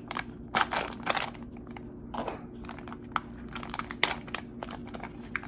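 Crinkling and light clicks of things being handled, a few short rustles spread through, over a faint steady hum.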